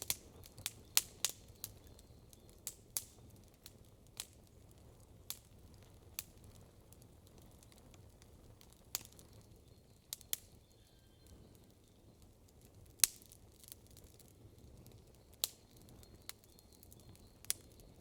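Wood campfire crackling: irregular sharp pops and snaps of burning wood over a low steady background, with a quick run of pops at the start and one loud pop about thirteen seconds in.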